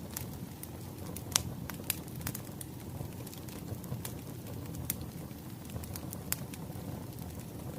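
Wood fire crackling: scattered sharp pops and snaps over a steady low rumble of flames, the loudest pop about a second and a half in.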